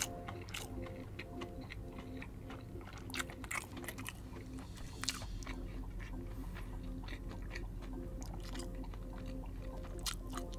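A person chewing a mouthful of crispy fried chicken on a stick, with many small, irregular crunches from the coating.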